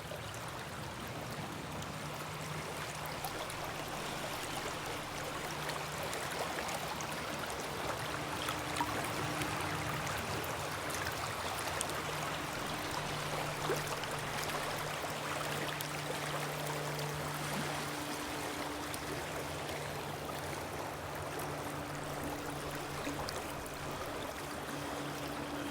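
River water flowing steadily, an even rushing and trickling, with a faint low hum that comes and goes underneath.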